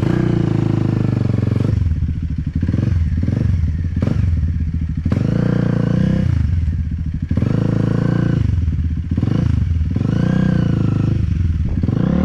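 Enduro dirt-bike engine revved in repeated surges, with the throttle opened and eased off about eight times as the bike is ridden through a trail section.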